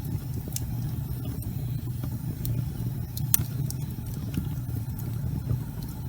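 Wood fire burning in a fireplace: a steady low rumble with scattered sharp crackles and pops, the sharpest about halfway through.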